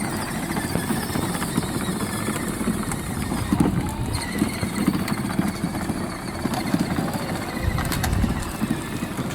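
Children's battery-powered ride-on toy truck driving along the street: its electric motor running and plastic wheels rolling, a steady rumble that swells briefly near the end.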